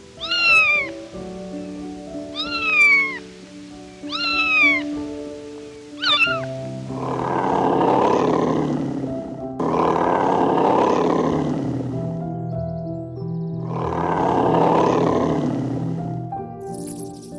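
Animal calls over soft piano music: four short meow-like calls that fall in pitch, then three long, rough, breathy blasts lasting two to three seconds each.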